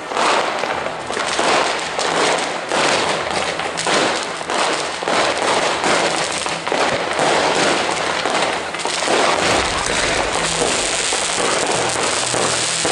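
Weco 'Dare Devil' firework battery firing shot after shot, with launches and bursts coming about two a second. Near the end they merge into a dense, steady crackling hiss.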